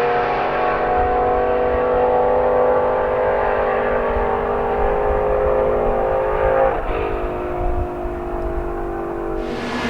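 BMW performance car engine held at high revs, its pitch sagging slowly, with a sudden change in pitch about seven seconds in and a brighter, louder note returning near the end.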